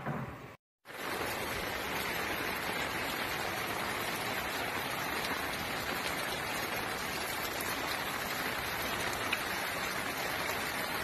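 Steady, heavy storm rain falling, an even, unbroken hiss that comes in after a brief dropout about a second in.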